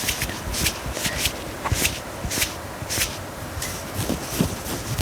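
Scratching on the fabric of a turtleneck top, in short, irregular scratchy strokes about one or two a second.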